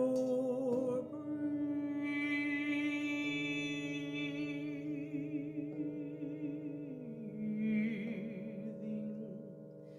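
A woman's wordless voice singing long held notes with a wavering vibrato over a steady drone, the sung note stepping down about seven seconds in.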